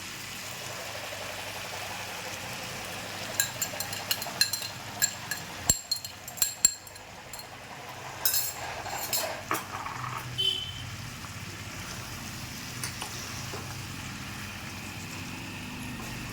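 Chicken sizzling gently in a kadai on low heat, with a metal spoon clinking and scraping against the pan in a run of sharp clicks from about three to seven seconds in and a few more a little later.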